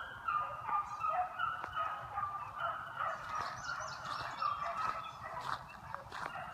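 A pack of beagles giving tongue while running a track: several hounds barking and baying in short, overlapping calls, several a second.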